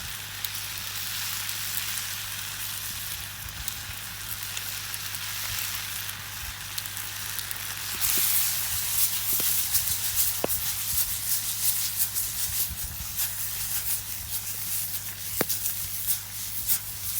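Tomato sauce and penne sizzling in a deep frying pan over a campfire, with scattered sharp crackles from the fire. The sizzle grows louder about eight seconds in.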